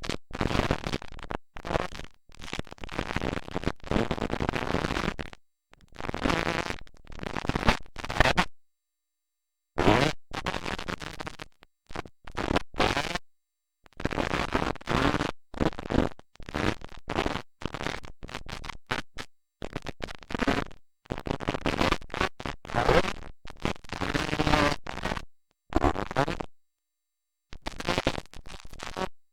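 Dirt bike engines heard through harsh, distorted audio, broken by several abrupt dropouts to dead silence, the longest a little over a second.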